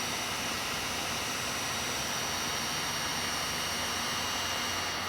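Electric heat gun running steadily, its fan blowing an even rushing hiss with a faint high whine, as it heats a plastic boat hull to smooth out scratches.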